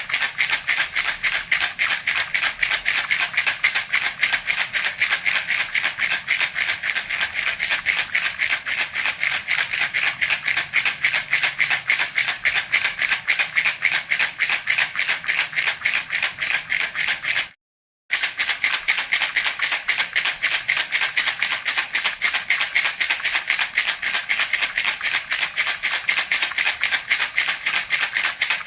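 Baby's hand rattle (jhunjhuna) shaken rapidly and evenly, a steady stream of many bright rattling shakes a second. It cuts out abruptly for about half a second just past the middle, then carries on the same way.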